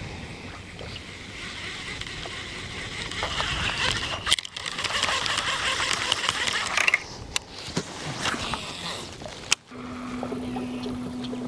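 Wind and water noise around a small fishing boat, with scattered clicks and knocks; near the end a steady low boat-motor hum starts.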